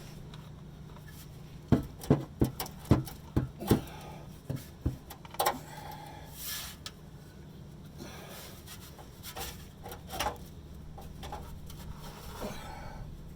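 A quick run of about eight sharp knocks, between about two and five seconds in, from hands-on work fitting sections of a car's exhaust pipe. A few softer knocks and scrapes follow. A steady low hum runs underneath.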